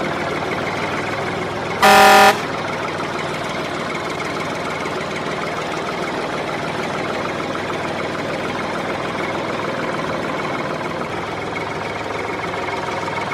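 A single horn honk, about half a second long, about two seconds in, over a steady, busy background noise.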